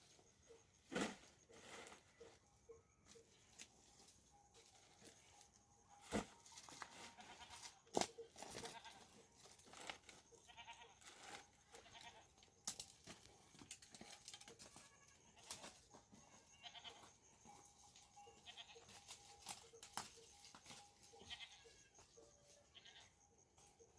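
Goats bleating faintly now and then, with scattered sharp knocks, the loudest about eight seconds in.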